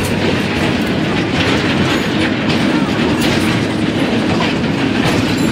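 Sugar-factory tourist train's narrow-gauge open carriages rolling past at close range, wheels clattering on the track over a steady engine hum.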